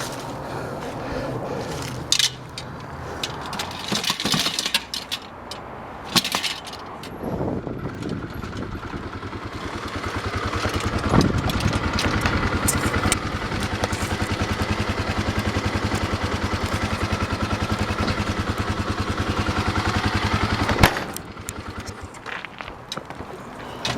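Several scattered clicks and knocks, then a vehicle engine running with an even firing beat. The engine builds up a little, runs steadily, and cuts off suddenly about 21 seconds in, followed by a few more clicks.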